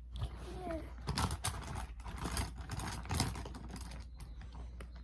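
Felt-tip markers being handled and rummaged through: an irregular run of light plastic clicks and rustles.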